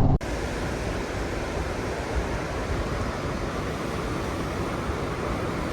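Steady rushing wind noise, an even hiss with no distinct events, cutting in suddenly just after the start.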